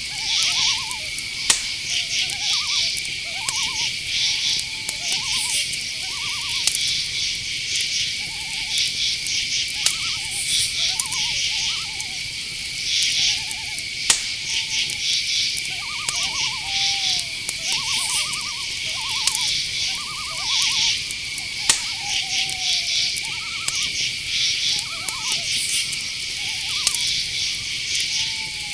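Night forest chorus: crickets and other insects make a steady high drone, with pulsing chirps and trills above it. Frequent short calls from night birds, owls among them, sound lower down; some are trilled and some slide downward. A few sharp clicks stand out.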